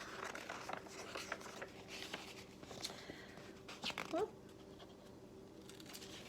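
Soft paper rustling and handling noises of a picture book's pages being turned, with a short rising squeak about four seconds in, over a faint steady hum.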